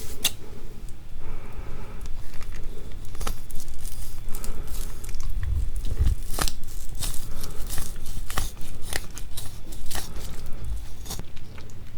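Close-miked eating of raw seafood: sticky, wet chewing with a dense run of sharp, irregular clicks and crackles.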